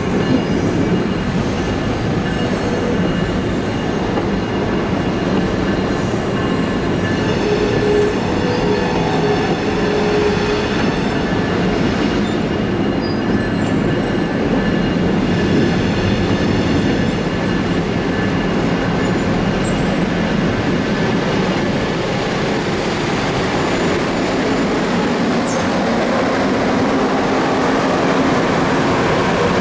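Train rolling by with a steady, continuous din of wheels on rails, overlaid with thin, high squealing tones from the wheels.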